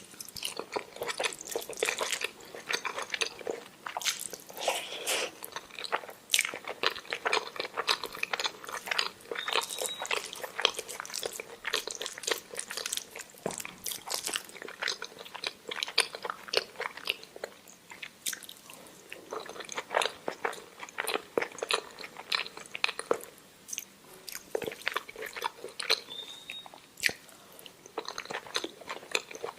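Close-up chewing and mouth sounds of a person eating omelette with rice: many quick, irregular clicks of biting and chewing.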